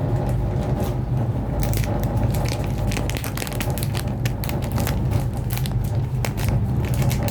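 Steady low rumble inside a cable car cabin, with dense, irregular crackling clicks that begin about a second and a half in.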